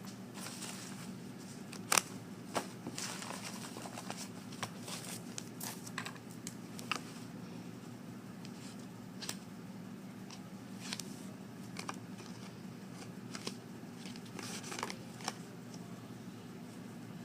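Scattered rustles and short clicks, like paper and small objects being handled, over a steady low hum in a small room. The sharpest click comes about two seconds in.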